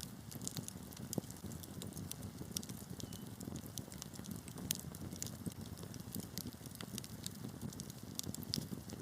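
Wood fire burning in a fireplace: a steady low rumble of flames with frequent small sharp crackles and pops at irregular intervals.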